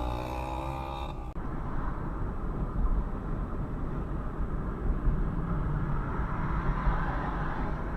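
A car engine accelerating, its pitch rising, then an abrupt change about a second in to the steady rumble of engine and road noise from a car driving along.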